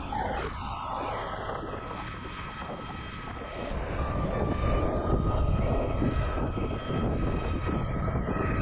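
Monday Motorbikes Gateway 500 W electric motor giving a steady high whine while riding, over wind rushing on the microphone and road noise that grow louder about halfway through.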